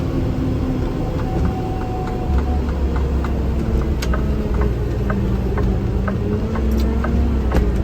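Vehicle engine and road noise heard from inside the cab while driving: a steady low rumble with an engine hum that drifts slightly in pitch, and faint regular ticking about twice a second.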